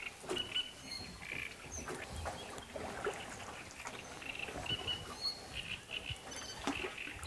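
Birds calling in short, scattered chirps and calls.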